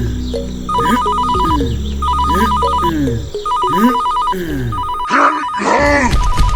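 Telephone ringing: a fast warbling two-tone trill in repeated bursts about once every second and a half, over steady low tones and repeated falling chirps, with a louder noisy clatter about five seconds in.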